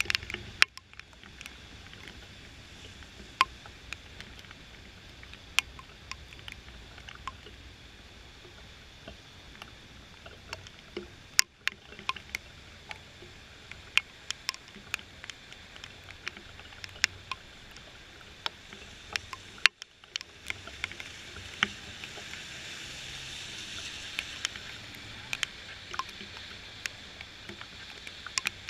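Raindrops tapping irregularly on the camera as sharp ticks, over a steady hiss of rain that grows louder after about twenty seconds. A faint low rumble comes from a freight train of tank cars rolling past in the distance.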